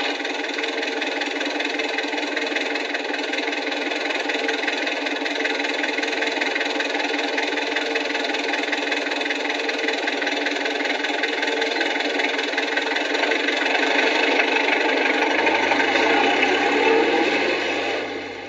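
A machine or engine running steadily with a rapid pulsing beat, growing louder over the last few seconds and then easing off just before the end.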